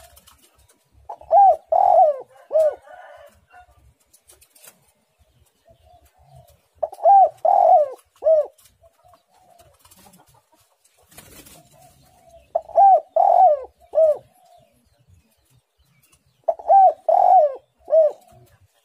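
Spotted dove cooing: four three-note phrases, each a short rising-and-falling coo, coming about every five seconds.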